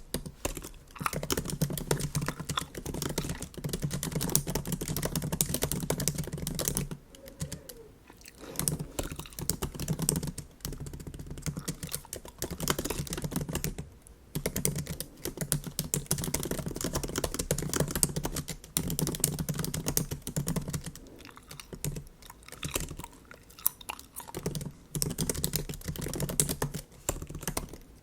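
Typing on a MacBook keyboard: quick runs of soft key clicks broken by short pauses.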